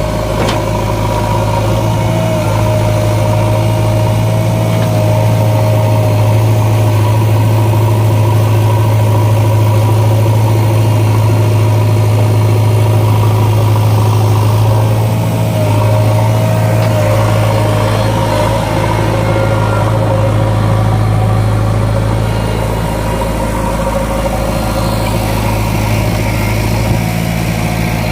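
JCB 3DX backhoe loader's diesel engine running steadily, with a higher whine that comes in and bends in pitch a couple of times.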